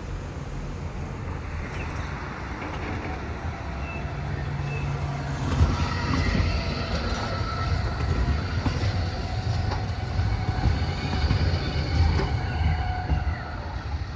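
Steady low rumble of a passing vehicle, growing louder about four seconds in, with thin high squealing tones held above it.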